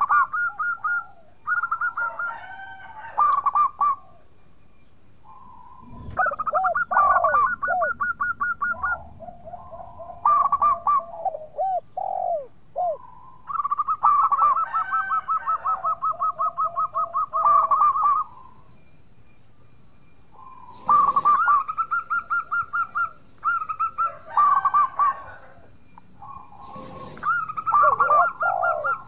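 Zebra dove (perkutut) singing: repeated phrases of rapid, trilled cooing notes, in several bursts separated by short pauses.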